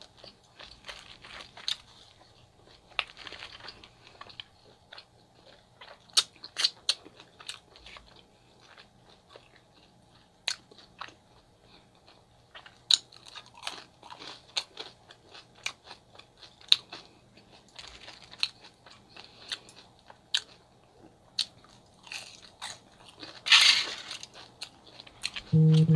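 Close-miked eating of a chicken gyro wrap and fries: wet chewing with many sharp mouth clicks and bites, some crunchy. Near the end comes a louder brief rustle, then a short hummed 'mm'.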